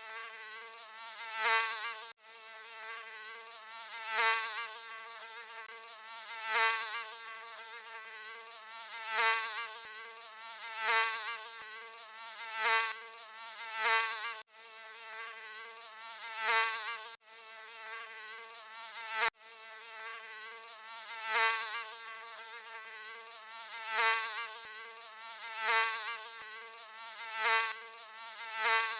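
Mosquito buzzing: a thin, continuous wing whine with a slightly wavering pitch that swells loud and fades back about every two to three seconds, as the insect comes close and moves off again. There are a few very brief dropouts.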